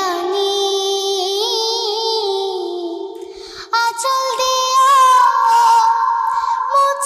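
A song with a singing voice holding long notes over music. A lower phrase gives way to a higher one about four seconds in.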